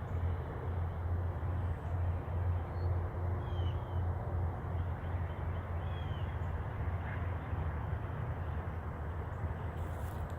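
Steady low hum of a running engine, with a few faint short bird chirps over it.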